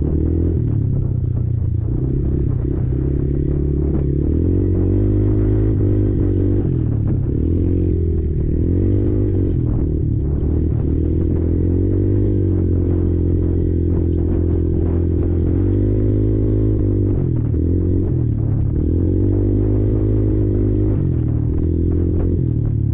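Kymco Maxxer 300 quad's single-cylinder four-stroke engine running under load, its pitch rising and falling again and again with the throttle, with frequent clatter and knocks over it.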